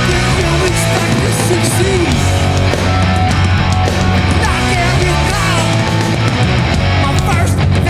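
Live hardcore punk band playing loud and steady: distorted electric guitars, bass and drums.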